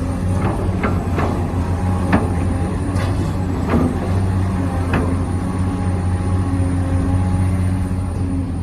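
Hydraulic pump of a remote-control model Volvo excavator humming steadily, with scattered sharp clicks and knocks as the machine works.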